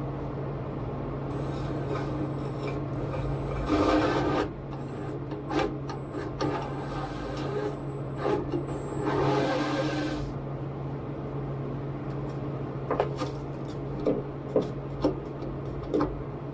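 A 1/4 inch drill bit boring into plywood in two short bursts, one about four seconds in and one around nine seconds, with a steady low hum underneath. A few sharp clicks and knocks of handling follow near the end.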